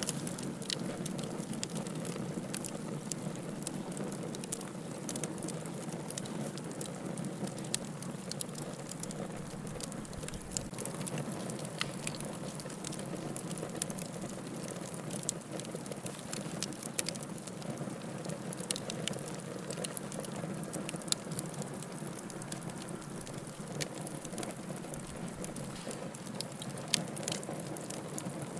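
Wood fire burning in a fireplace: a steady soft hiss and rumble with frequent sharp crackles and pops from the burning logs.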